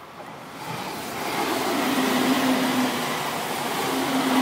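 Electric train passing close by: a rushing noise that swells over the first second or two and stays loud, with a steady low hum underneath from about halfway in.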